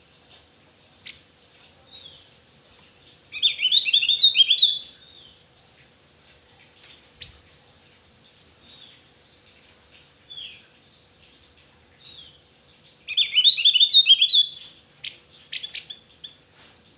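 Opior jawa (Javan heleia) singing: two loud bursts of quick, jumbled high chirps about ten seconds apart, with soft single call notes in between.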